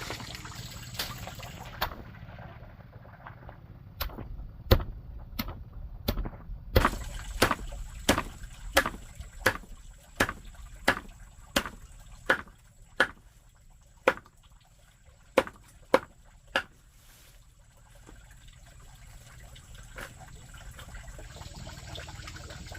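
A run of sharp, evenly spaced knocks, about three every two seconds, with a last few near the end. There is running or trickling water at the start and end.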